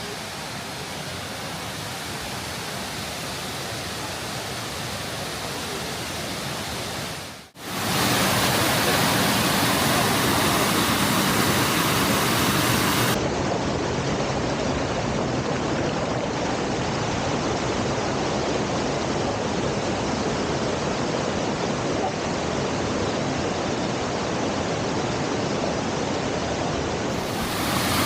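Torc Waterfall's falling water rushing as a steady, even noise. It cuts out briefly about seven and a half seconds in and comes back louder.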